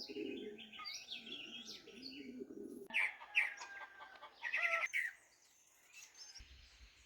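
Birds chirping and singing, several short high calls and whistled phrases overlapping, dying away after about five seconds.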